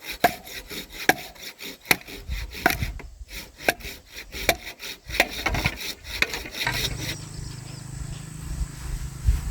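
Hand saw cutting through wood in regular strokes, a little over one a second, which stop about two-thirds of the way in. A steady low hum follows.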